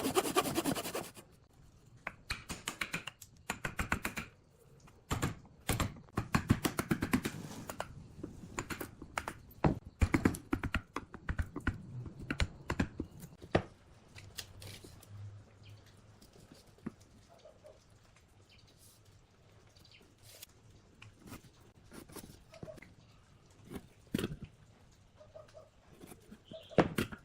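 Irregular knocks, taps and clicks of wood being worked or handled, coming in clusters, busier in the first half and sparser later.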